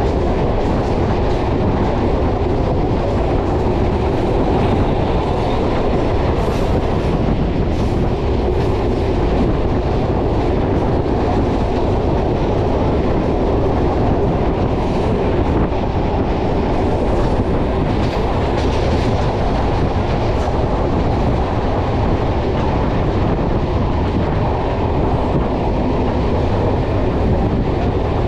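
Suburban electric local train (EMU) running steadily along the line, its wheels rumbling on the rails, heard from the open doorway of the moving coach.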